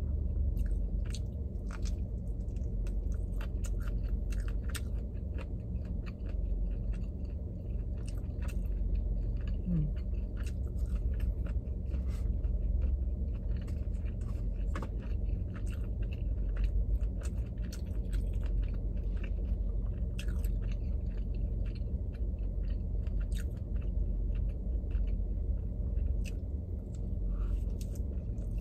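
A person chewing and eating sushi, with many short wet mouth clicks and smacks throughout, over a steady low hum.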